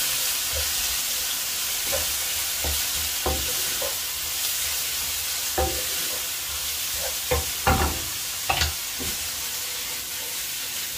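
Boneless chicken strips frying in oil with ginger-garlic paste and ground spices in a non-stick wok, a steady sizzle, while a wooden spatula stirs and scrapes them with scattered knocks against the pan.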